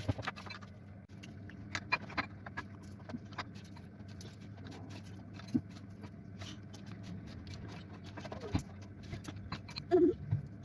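Scattered light clicks, taps and a few louder knocks of kitchen items being handled, over a faint steady low hum.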